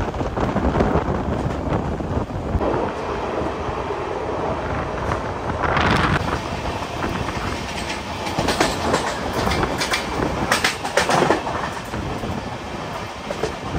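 A train running on the rails, its steady rumble broken by sharp clicks of the wheels over the rail joints, most of them clustered around the middle.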